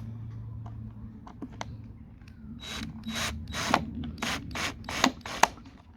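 Hand screwdriver driving a screw into thin scrap wood: a few faint clicks, then from about halfway a run of about eight short grinding strokes, roughly three a second, as the screw is turned in.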